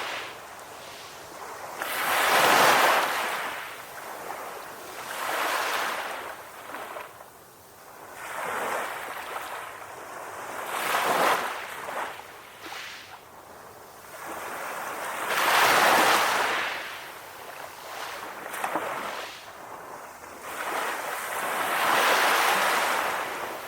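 Calm ocean waves breaking and washing in, a swell of surf rising and falling every few seconds.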